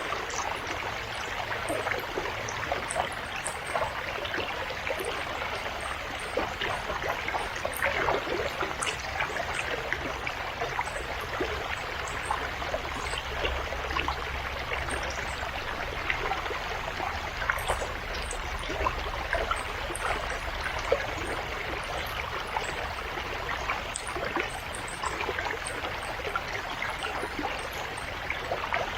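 River water flowing steadily, with constant trickling and many small splashes and gurgles.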